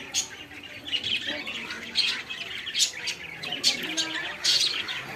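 Birds chirping and squawking busily, with many short, sharp high calls coming several times a second.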